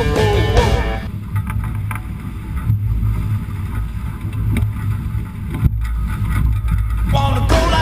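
Wind rumbling on the microphone and water rushing past a Hobie Trifoiler sailing hydrofoil under way. Rock music with singing cuts out about a second in and comes back near the end.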